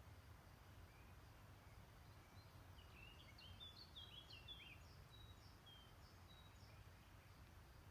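Faint songbirds calling, with scattered short whistled notes and a quick run of chirps about three seconds in, over a faint low steady rumble.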